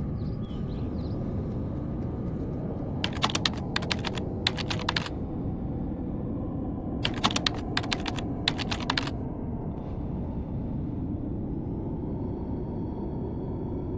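Typing on a computer keyboard in two quick bursts of keystrokes, over a steady low background hum.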